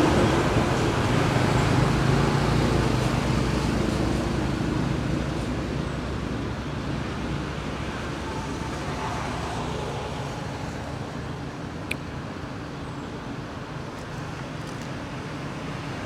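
Road traffic noise, loudest at the start and fading slowly as a vehicle moves away, with one sharp click near the end.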